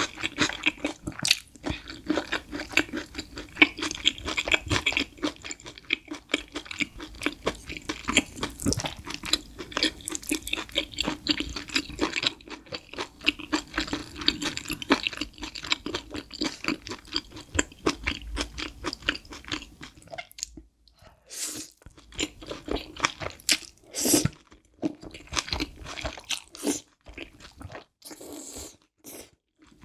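Close-miked chewing of spicy stir-fried instant noodles with green onion kimchi: a dense run of crisp, wet crunches. After about 20 seconds it thins out into separate mouth sounds as more noodles are lifted and taken in.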